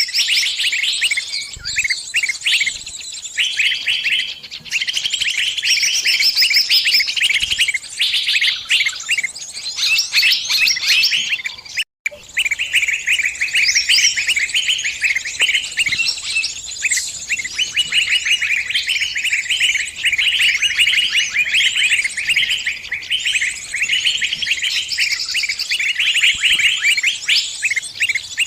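Small songbird calling with rapid, continuous high-pitched chirps and trills: the distress calls of a bird caught and pinched, calling to other birds for help. The sound cuts out for a moment about twelve seconds in.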